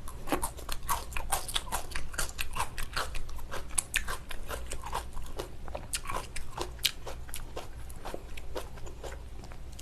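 Close-miked chewing of salmon with crisp vegetables: a continuous run of small crunches and wet mouth clicks.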